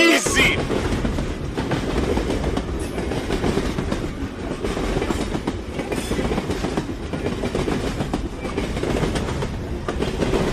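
Train running steadily along the track: a continuous low rolling noise with the wheels clicking over rail joints.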